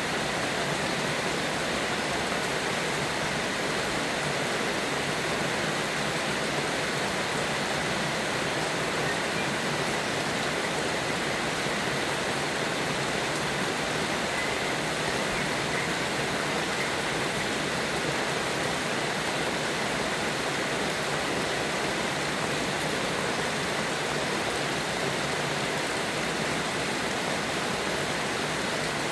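Steady, even rain noise with no break and no thunder.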